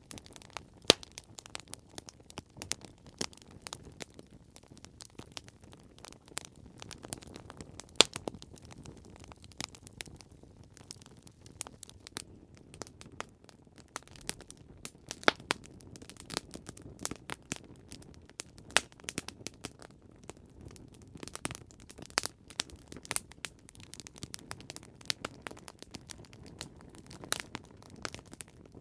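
Campfire crackling: a steady soft low rumble of flames with frequent irregular sharp pops and snaps from burning wood, a few much louder than the rest.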